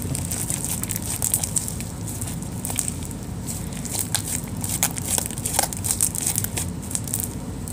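Sticky clear slime being worked by hand, making many small irregular clicks and crackling pops as it is pulled and squeezed.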